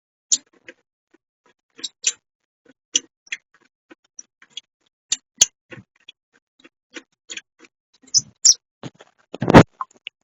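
Irregular clicks and light knocks, a dozen or more at uneven spacing, with a heavier knock near the end.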